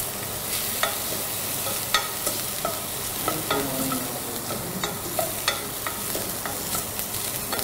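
Chopped onion and garlic sizzling in vegetable oil in a saucepan, stirred with a wooden spoon that knocks and scrapes against the pan in irregular sharp clicks, a couple each second.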